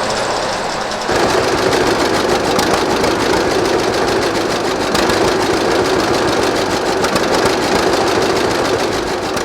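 Antique farm tractor engine running steadily with a rapid, even beat; it gets louder about a second in.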